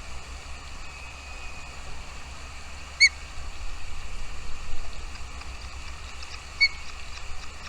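Two short, sharp bird chirps, the first about three seconds in and the second near the end, over a steady background hiss.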